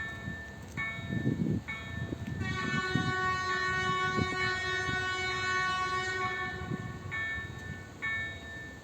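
Level-crossing warning bell striking over and over, about once every 0.8 seconds. A couple of seconds in, a freight locomotive's horn sounds one long steady blast of about four seconds over it. A low rumble runs underneath.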